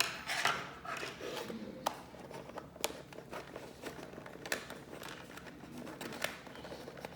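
Small scissors snipping and clicking at toy packaging, with crinkling plastic and cardboard handling between the snips. A handful of sharp clicks stand out over the rustling.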